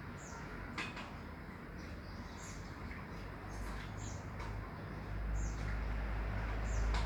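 A bird chirping: short high calls, each falling in pitch, repeated about every second and a half, with a click about a second in. A low rumble grows louder past the middle.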